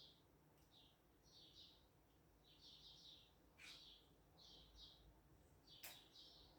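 Faint birdsong: short high chirps repeating about twice a second. Two sharp clicks stand out, one in the middle and a louder one near the end.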